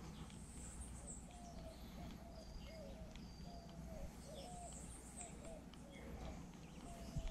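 Birds calling faintly: a run of short, low, cooing notes about twice a second, with a few brief higher chirps.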